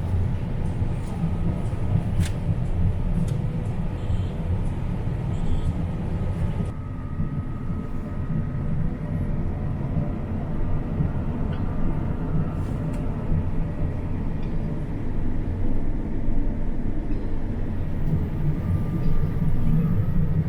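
Combine harvester running steadily while harvesting soybeans: a constant low engine and machinery rumble with a faint steady whine above it. A single sharp click sounds about two seconds in.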